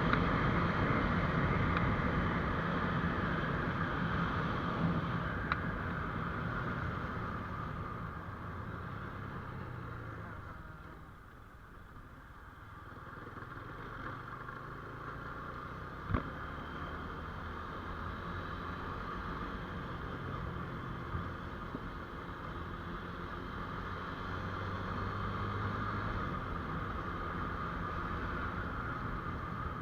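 GPX Demon GR200R single-cylinder motorcycle running on the road, its engine mixed with wind and tyre noise; the sound eases off about eleven seconds in and then builds back up. A short click comes about sixteen seconds in.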